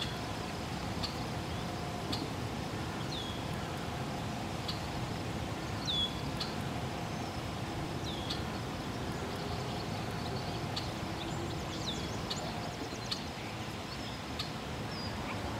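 Steady outdoor background noise with a small bird giving short, quick falling chirps every second or so.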